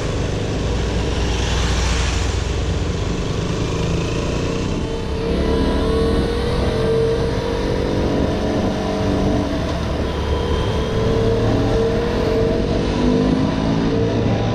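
KTM 125 Duke's single-cylinder four-stroke engine running under way, with wind rushing over the microphone. From about five seconds in, its pitch climbs three times as the bike accelerates up through the gears.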